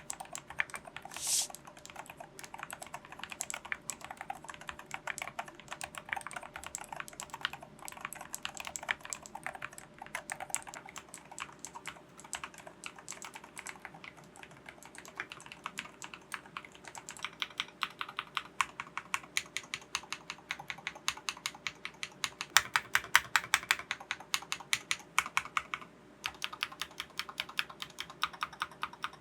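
Typing on a Cherry Xtrfy K5 Pro TMR 8K compact gaming keyboard with MK Crystal magnetic (TMR) switches: a continuous run of key clacks that gets faster and louder past the middle, with a brief break near the end.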